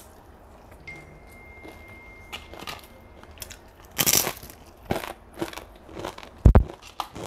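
Eating sounds: chewing a mouthful of stir-fried flat rice noodles with beef, in short irregular bursts, with a low thump near the end.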